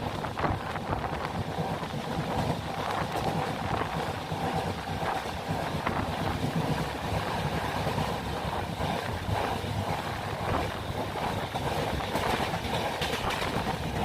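Express passenger train running at speed: a steady low rumble with continual clatter and rattling, and some wind noise on the microphone.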